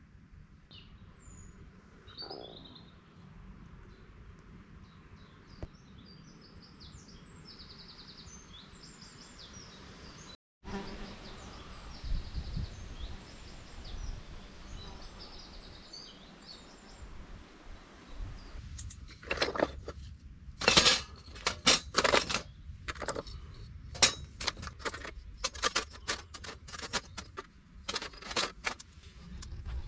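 Small birds chirping in the background. In the last third, a quick run of sharp knocks and clatters, the loudest sounds here.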